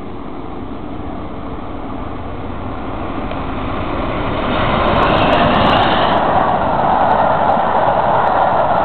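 Peppercorn A1 Pacific steam locomotive 60163 Tornado approaching at speed with its train. The noise grows steadily louder over the first five seconds, with a higher hiss as it draws level, then holds loud as the train runs past.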